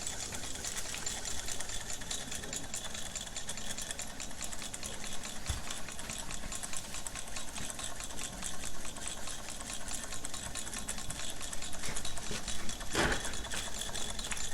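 Small Raabhot hot air engine running steadily with a fast, even mechanical clatter. A single louder knock comes near the end.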